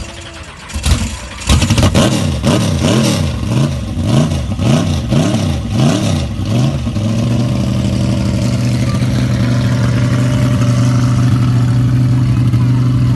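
Car engine revved over and over, its pitch rising and falling about eight times in five seconds, then settling into a steady idle about seven seconds in.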